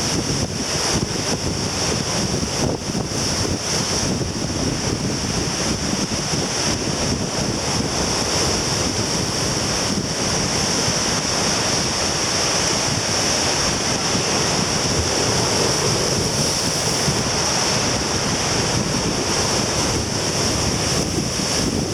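Heavy surf breaking and washing on a beach at high tide, a steady rushing noise, with strong wind buffeting the microphone.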